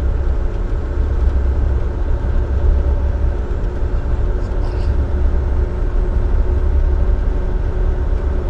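Dump truck cruising at highway speed, heard from inside the cab: a steady low drone of the engine and road, with a few steady engine tones above it.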